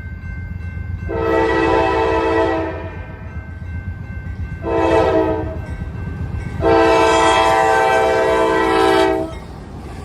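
Locomotive air horn sounding three blasts, long, short, then long, the last the longest at over two seconds. A steady low rumble from the train runs underneath.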